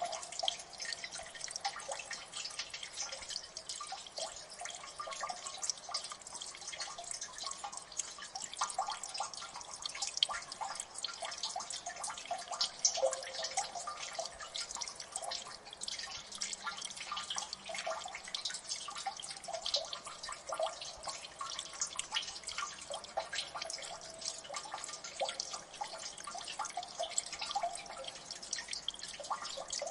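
Water dripping in a gully: many drops falling fast and unevenly into water, with short pitched plinks among a steady patter.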